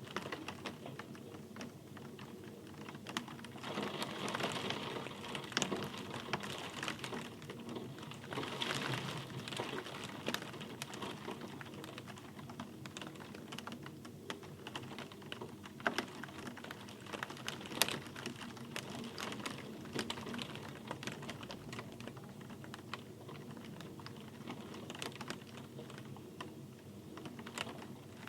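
Steady rain with a dense patter of close, irregular drop ticks. It swells a little about four and about nine seconds in.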